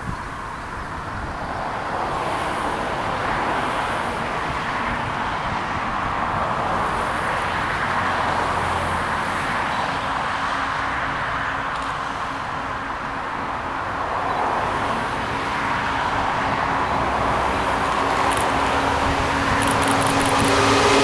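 SNCF BB 15000 electric locomotive and empty coaches moving off: a steady rolling noise that slowly swells, with a steady hum joining about ten seconds in.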